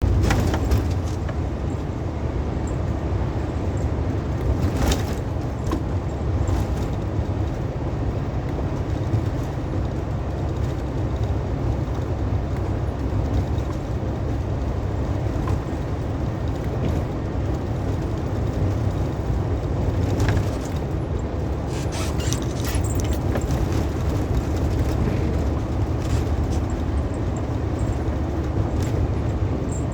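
Truck driving on the road: a steady low engine and road drone, with a few brief clicks and knocks, most of them a little past twenty seconds in.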